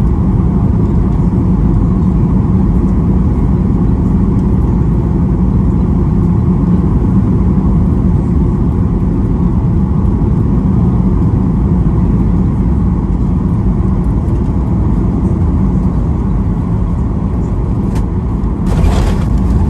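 Steady, loud low rumble inside the passenger cabin of a Boeing 737-800, with a short hiss about a second before the end.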